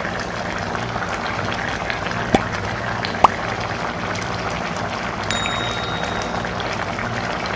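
Food cooking in a pot or pan: a steady sizzling hiss with faint crackles, and two short rising squeaks a couple of seconds in.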